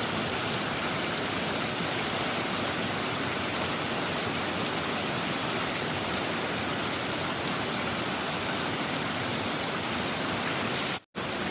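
Steady rush of flowing stream water, an even hiss with no separate events. It cuts out for an instant near the end.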